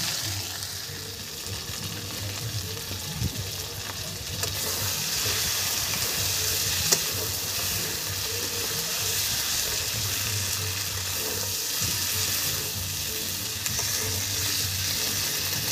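Chicken sizzling as it is slow-fried in a kadai until nearly done (the kosha stage of a curry), with a metal spatula stirring the meat and scraping the pan, with an occasional click.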